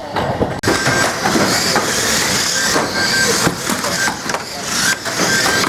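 Banger racing cars running on the track: a dense clatter of engine noise, rattling bodywork and scattered knocks. It gets suddenly louder about half a second in.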